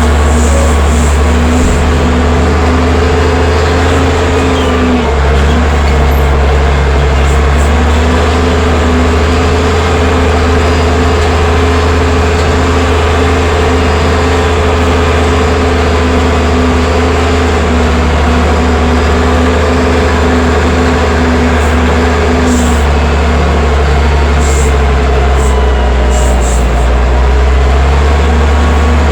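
Allis-Chalmers 940 wheel loader's diesel engine running steadily and loud, its pitch shifting slightly a few times as the throttle changes, with a few light metallic clicks in the second half.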